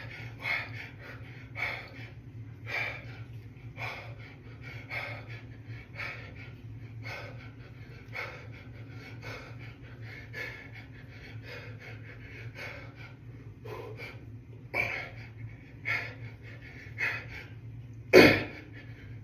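A man breathing hard through a set of dumbbell hammer curls, one short forceful breath about every second, with a louder breath near the end. A steady low hum runs underneath.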